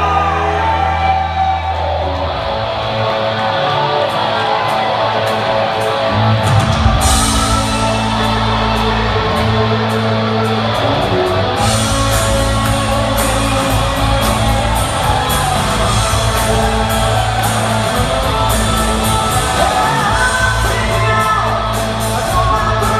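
Live rock band playing in a large hall, loud: electric guitar with a held low note at first, then bass and drums with crashing cymbals come in about six seconds in. Shouts from the audience over the music.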